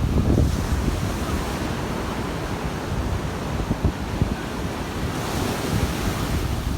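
Strong wind buffeting the microphone over the hiss of surf breaking on the shore, with a wave's wash swelling about five seconds in.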